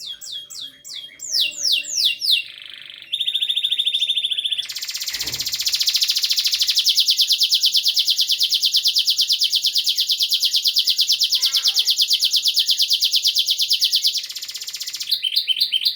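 A bird singing: quick falling whistled notes, then a long, fast, loud trill lasting about nine seconds, then more falling notes near the end.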